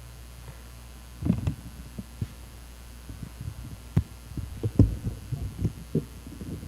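Steady low electrical buzz from the church's sound system, the unwanted hum of a fault in the audio setup. From about a second in it is joined by irregular low thumps and knocks, as of a microphone being handled.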